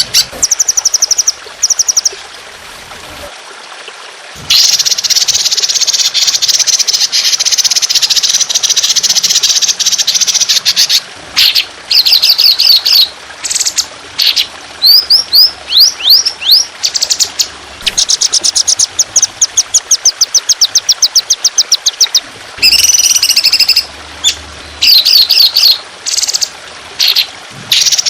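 Songbird singing fast, harsh trills of rapidly repeated high notes, the long 'tembakan' bursts of a trotolan-style song, with short runs of quick rising whistles. A steady trickle of water runs underneath.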